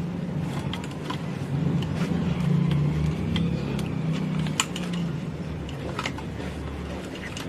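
A steady low motor-like hum, swelling slightly mid-way, with scattered small clicks and taps of a camping lantern's plastic parts and circuit board being handled.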